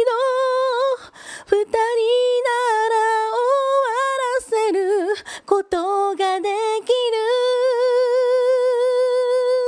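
A woman singing a cappella, unaccompanied, with short breaths between phrases; the last phrase ends on one long held note for the final few seconds.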